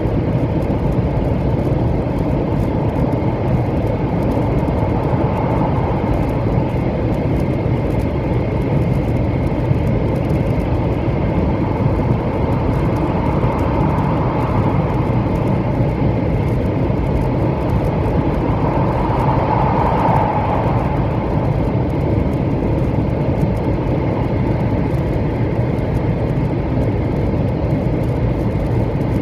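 A 700 series Shinkansen heard from inside, running at speed: a steady rumble and rush of wheels and air, with a faint high whine and a mid-pitched hum that swells briefly three times.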